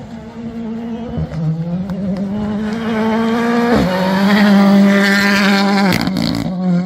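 Rally car engine at full throttle, its pitch climbing, dipping briefly at a gear change about four seconds in and climbing again. Near six seconds the throttle closes with a few sharp bangs, and the engine sound drops away just before the end.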